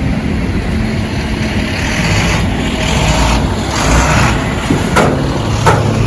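Plow and sanding truck going by, its engine running under a steady low noise, with a rushing swell in the middle and two sharp clanks near the end.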